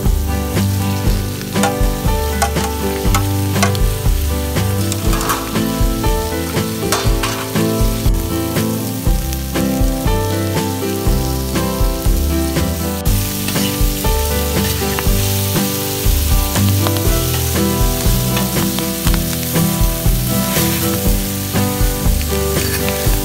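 Leafy greens sizzling on a hot flat-top barbecue plate, turned with a spatula that clicks and scrapes against the steel, over background music with a steady bass line.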